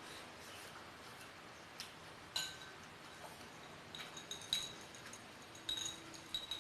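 Eating utensils clinking against a dish, several short ringing taps about two seconds in and a quicker run of them in the second half.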